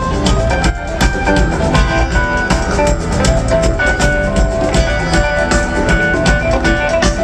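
A live jam band playing an instrumental passage, with guitar melody lines over a steady drum-kit beat.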